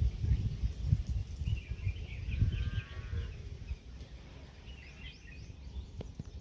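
Wind buffeting the microphone in gusts, easing after about three and a half seconds, with small birds chirping now and then.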